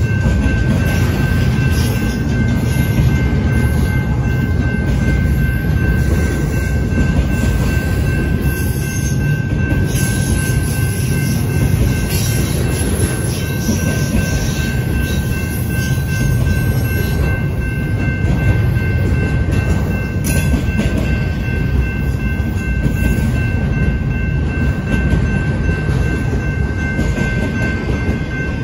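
Intermodal freight cars, double-stack containers and trailers on flatcars, rolling past close by: a loud, steady rumble and clatter of steel wheels on the rails. A thin, steady high-pitched ringing tone runs over it throughout.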